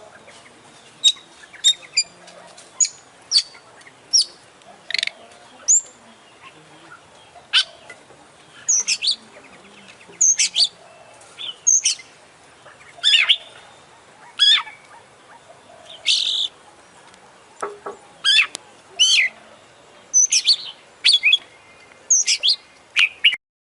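Oriental magpie-robin (kacer) singing: short, sharp, varied chirps and whistles, one or two every second or so, with mimicked calls of other birds worked in. The song cuts off abruptly just before the end.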